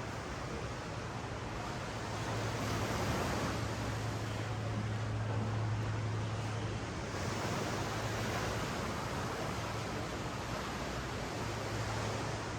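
Ocean surf washing up and down a sandy beach, a steady rush that swells for a few seconds in the middle, with a steady low hum underneath.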